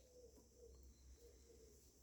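Faint, soft, low calls from a chicken, several short notes in a row, against near silence.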